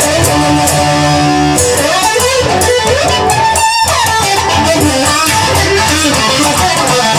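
Instrumental break in a rock song: an electric guitar plays a lead line with sliding, bending notes over the band.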